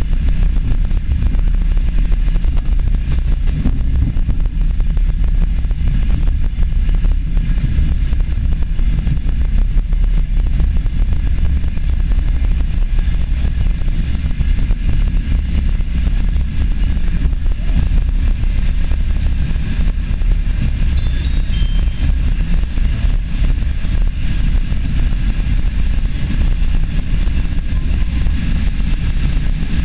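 Passenger train running along the line, heard from inside the carriage: a loud, steady low rumble of wheels on rails.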